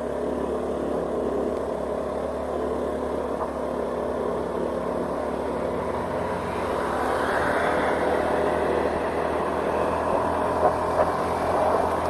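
Vehicle driving along a road: steady engine and tyre noise, swelling louder for a couple of seconds about seven seconds in, with two small knocks near the end.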